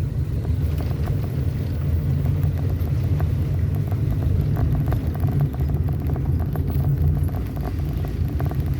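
Vehicle driving along: a steady low engine and road rumble, with frequent small ticks and rattles over it.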